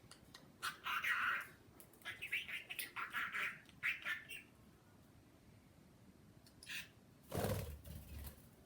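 Pet bird calling in a string of short chirps for about four seconds. A brief muffled thump and rustle follows near the end.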